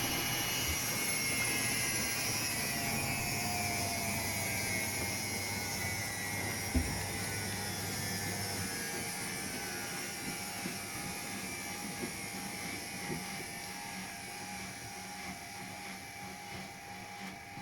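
Washing machine spin cycle winding down: the drum and motor whine falls slowly in pitch and grows quieter. There is a single knock about seven seconds in.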